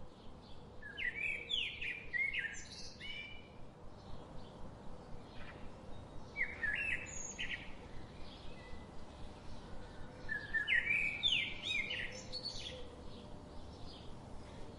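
Small birds chirping in three bouts of quick calls, with short gaps between.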